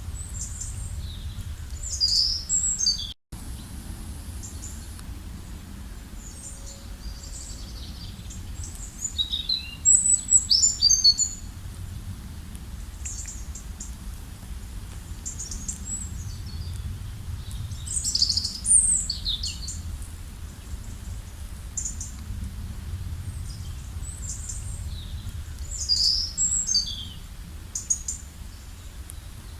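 Songbirds singing and chirping in short high bursts, loudest about ten seconds in, over a steady low background noise. The sound drops out for an instant just after three seconds.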